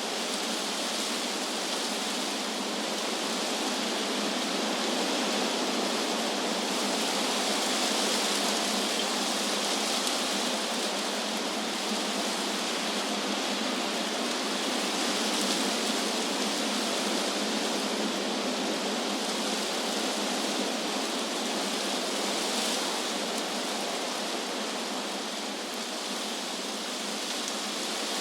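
Wind blowing through trees: a steady rushing hiss of leaves that swells and eases gently.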